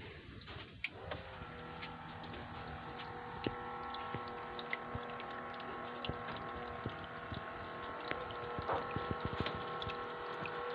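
Homemade water fountain running: its small homemade water pump hums steadily, starting about a second in, with water dripping and splashing in many irregular ticks.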